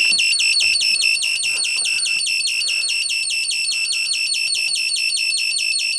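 Electronic bird-chirp generator, an astable-multivibrator circuit, chirping continuously on its own: a rapid, even run of short shrill chirps, about five a second, each with a quick drop in pitch.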